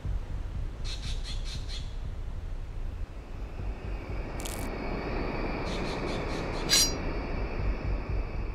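Woodland ambience with birds: a quick run of high chirps about a second in, more chirps past the middle, and a sharp bird squawk near seven seconds, over a steady low rumble.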